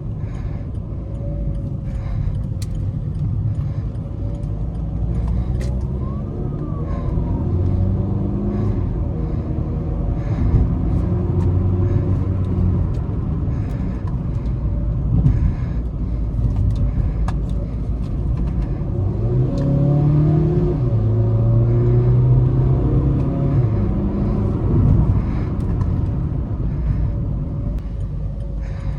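Volkswagen Vento 1.5 TDI four-cylinder diesel engine and exhaust under acceleration, a low drone that rises in pitch and steps back down as the DSG gearbox shifts, most clearly about twenty seconds in.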